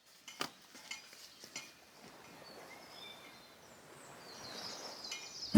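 Quiet outdoor ambience: four sharp clicks or crackles in the first second and a half, then a faint background with thin, high bird chirps that grow a little toward the end.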